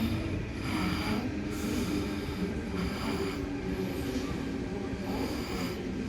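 Sydney Metro electric train running: a steady low rumble with a faint hum, and a hiss that swells and fades about once a second.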